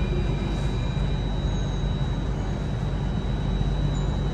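Steady rumble and hum inside a Singapore MRT Circle Line train carriage, with a faint, steady high whine.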